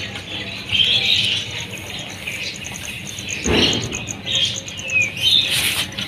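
Small birds chirping in short, scattered calls, over a fast, high, evenly pulsing trill that runs throughout. A brief dull noise a little past halfway.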